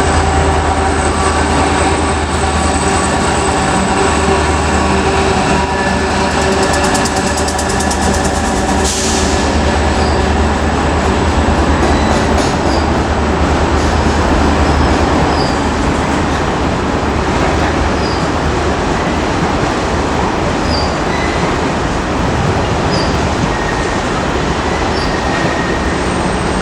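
Diesel-hauled freight train passing, with a steady low engine drum and the wagons' wheels running on the rails. Some wheel squeal is heard, and in the second half there is a regular clicking over the rail joints about every two seconds.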